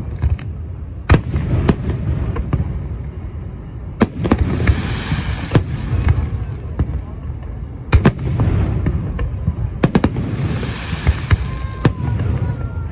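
Fireworks bursting: a string of sharp bangs, with two stretches of crackling sizzle after bursts about 4 and 10 seconds in, over a low rumble.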